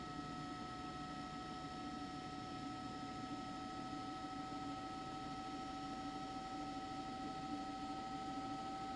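Steady electrical hum: two high, unchanging tones over a low even hiss, with no impacts or other events.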